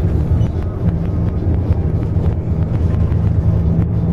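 City bus running, heard from inside the passenger cabin: a steady low engine and road drone, with a steady hum setting in about a second in.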